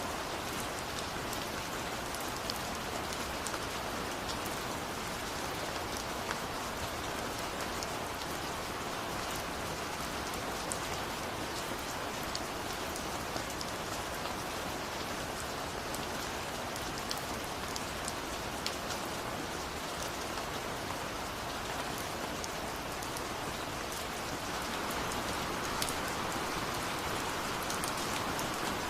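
Steady rainfall, an even hiss with many separate drops ticking through it; it grows slightly louder near the end.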